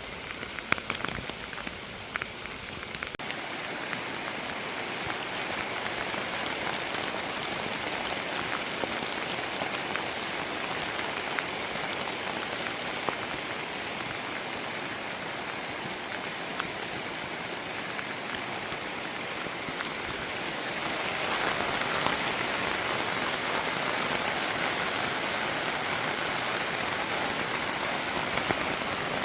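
Steady rainfall, an even hiss with scattered individual drops tapping. It grows a little louder about two-thirds of the way through.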